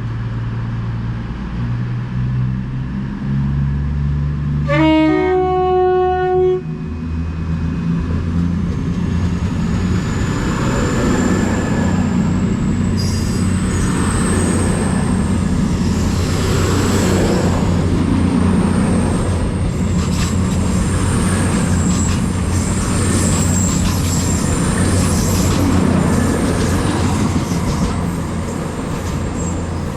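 CrossCountry Class 221 Super Voyager and Class 220 Voyager diesel multiple units pulling out of the station. The driver sounds a two-tone horn about five seconds in, low note then higher note. The diesel engines then open up and the train accelerates away with building rail noise and a faint rising whine.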